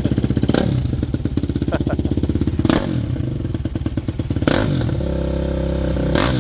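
Honda CRF250X dirt bike's single-cylinder four-stroke engine running just after a cold start, choke now off and the bike warming up, with a few short sharp spikes in its note.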